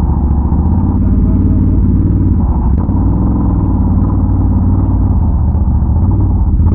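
ATV engine running steadily, a loud continuous low drone.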